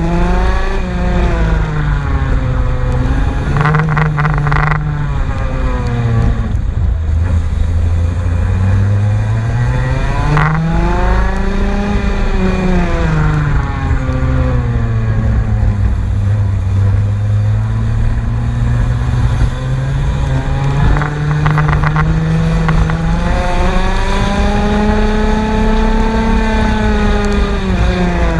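Race car engine under test, its revs climbing and dropping in long sweeps every few seconds as the car is driven hard and lifts off again.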